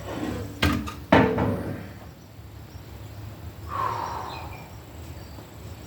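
Two sharp knocks about half a second apart, the second the louder, each with a brief ringing after it, then a fainter short sound near the middle.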